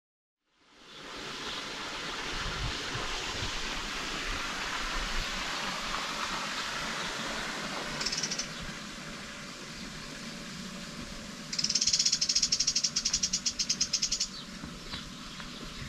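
Outdoor lakeside ambience fading in from silence as a steady hiss. A bird gives a short high call about eight seconds in, then a loud, rapid trill lasting about two and a half seconds.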